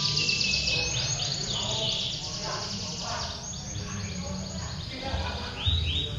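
Several domestic canaries singing at once in long, continuous song, with rapid trills and quick falling sweeps overlapping throughout, over a low hum of people in the background.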